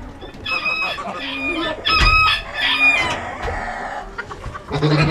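Chickens calling, with a run of loud, high calls in the first three seconds.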